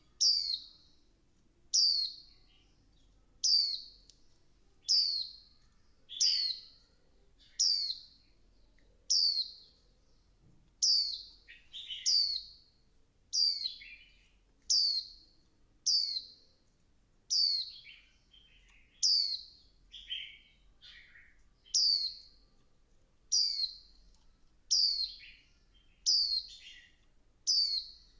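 Female white-eye giving short, high, down-slurred calls, repeated steadily about every second and a half. This is the calling that keepers play to stir a male white-eye into song.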